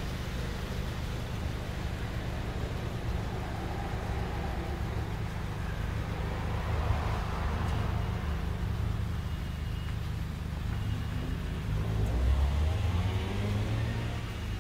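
BAIC BJ20 SUV's engine running steadily at idle, with a brief rise in engine sound near the end.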